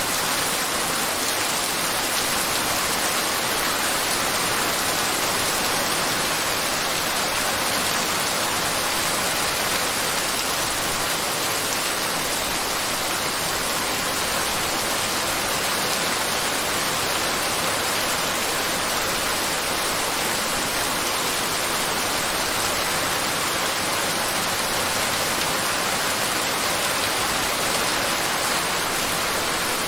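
Steady heavy rainfall, an even unbroken hiss of rain with no distinct drops or thunder.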